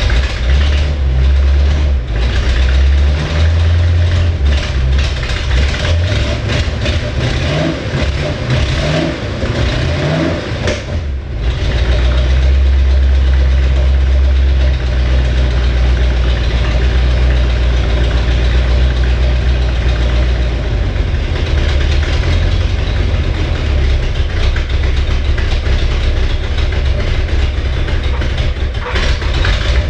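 1968 Chevrolet Camaro SS V8 running after nine and a half years laid up, its revs rising and falling a few times between about seven and ten seconds in, then settling into a steady, heavier idle.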